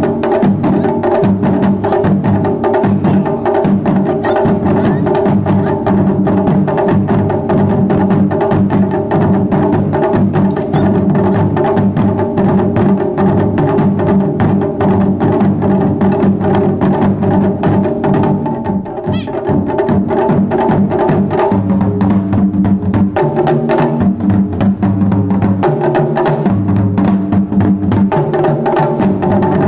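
Japanese taiko drums played by an ensemble, with dense, continuous strokes and a brief lull a little past halfway.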